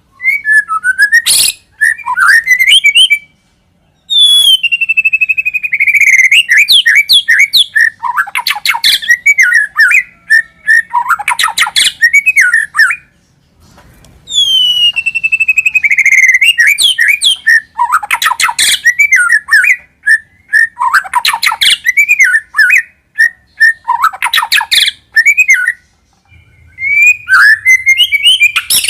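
White-rumped shama (murai batu) singing loud, varied whistled phrases with quick trills, played as a lure call. A long phrase opening with a falling whistle comes twice, about ten seconds apart, the second time nearly unchanged, with short pauses between phrases.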